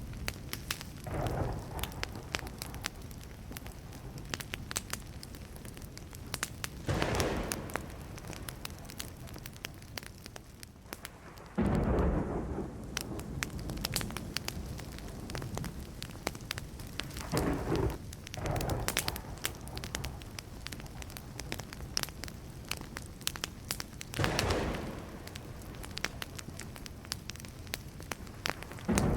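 Burning wood crackling and popping throughout, with thunder rumbling several times; the loudest roll starts suddenly about twelve seconds in.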